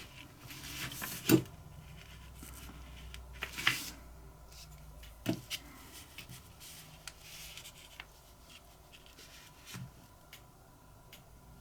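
Scattered small clicks and taps of tweezers and small lighter parts being handled on a work surface, with one sharper knock about a second in and a few fainter ones after.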